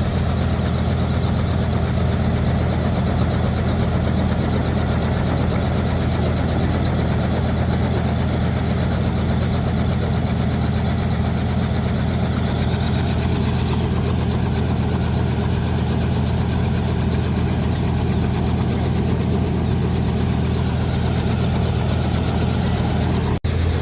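Helicopter engine and rotor drone, steady and loud, with a fast, even beat running through it. It cuts out for an instant near the end, then carries on a little deeper.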